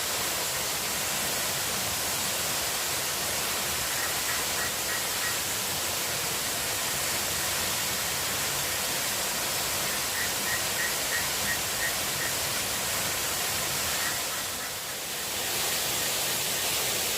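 Steady rushing hiss of water. Twice, a faint run of quick, high chirps rises above it.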